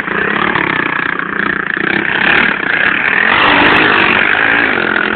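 Pit bike engine running and revving, with its pitch rising and falling and loudest a little past halfway.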